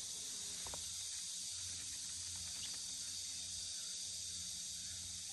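A steady chorus of insects in the grass, an even high-pitched hiss, with a couple of faint ticks about a second in.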